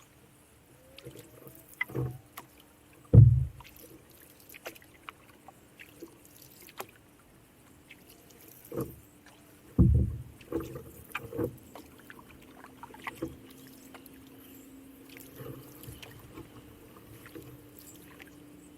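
Knocks and thumps against a canoe's hull, a few scattered over about twelve seconds, the loudest about three and ten seconds in, followed by a faint steady hum.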